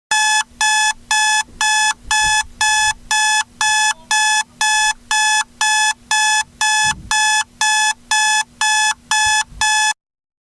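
Electronic alarm beeping: about nineteen identical high-pitched beeps, roughly two a second, stopping abruptly near the end.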